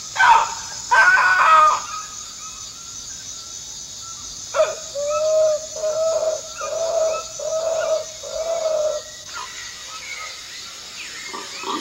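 A Waorani hunter calling with his voice to lure howler monkeys: two short loud calls near the start, then a run of five low hooting notes about a second apart, over a steady high drone of forest insects.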